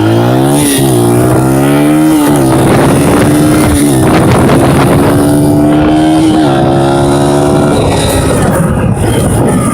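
Dirt bike engine pulling hard through the gears. Its pitch climbs, falls sharply at each shift and climbs again, then holds steady. Near the end the engine turns ragged as the throttle comes off.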